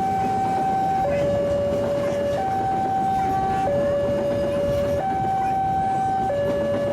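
Electronic two-tone warning alarm alternating steadily between a higher and a lower note, each held about a second and a quarter, over a steady rushing noise.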